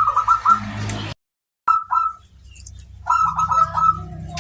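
Zebra dove (perkutut) cooing: three quick staccato phrases of three to four notes each, with a brief dead-silent dropout about a second in. Faint chirps from small birds and a low steady hum lie behind it.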